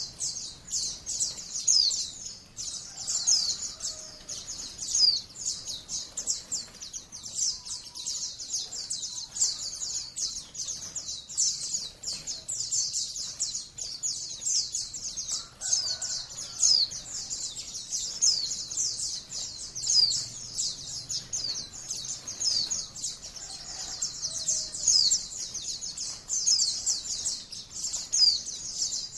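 White-eye (pleci, Zosterops) song: a dense, unbroken stream of rapid high chirps and short trills, the long continuous singing that keepers call ngalas.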